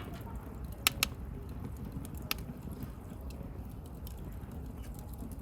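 Wood campfire burning with a low steady rumble and sharp crackles: two pops close together about a second in and another a little after two seconds.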